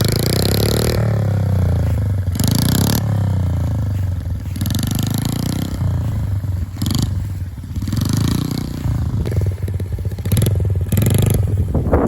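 Honda CRF50 mini dirt bike's small single-cylinder four-stroke engine running, its pitch rising and falling as the throttle is opened and eased. Harsh rushing noise comes and goes over it every second or two.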